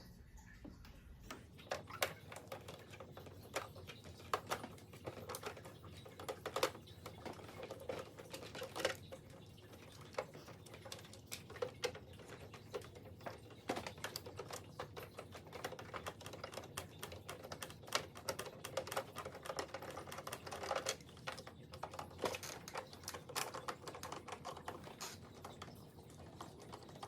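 Irregular small clicks and taps of a Phillips screwdriver working screws out of a printer's plastic casing, with handling knocks in between.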